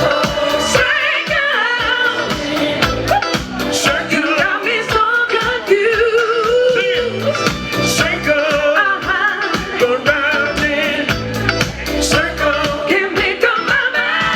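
Live soul/R&B band music with a lead vocalist singing over drums, amplified through a large outdoor PA system.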